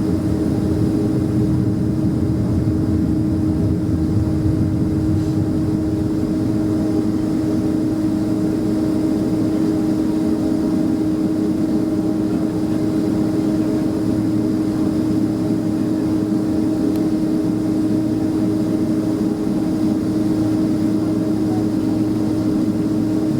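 Steady cabin noise inside a Boeing 767-300ER airliner: a constant low rumble of the jet engines and airflow with a droning tone held at one pitch, unchanging throughout.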